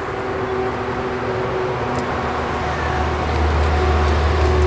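Steady mechanical hum over a noisy drone, with a low rumble that grows louder about halfway through.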